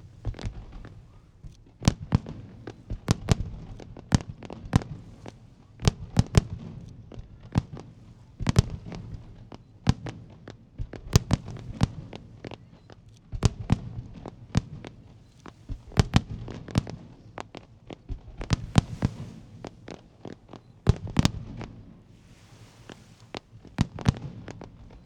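Aerial fireworks shells bursting in quick clusters of sharp bangs every couple of seconds, each followed by a low rolling boom. A short hiss comes near the end.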